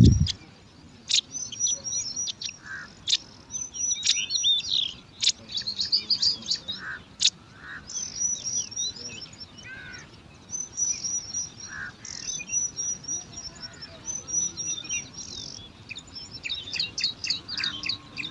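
Bar-winged prinias (ciblek) calling: many rapid series of short, high, thin chirps, one string after another, with a few lower notes between. A brief thump right at the start.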